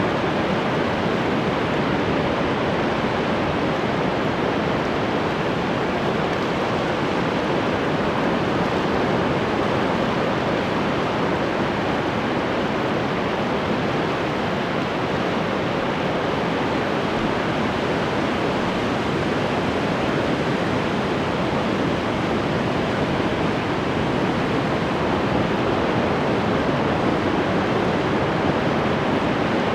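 Ocean surf: a steady, continuous wash of breaking waves with no single distinct break standing out.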